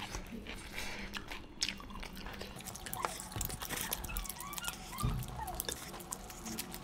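Close-miked chewing and mouth noises of people eating chicken curry with their hands, made up of many small, scattered wet clicks and smacks.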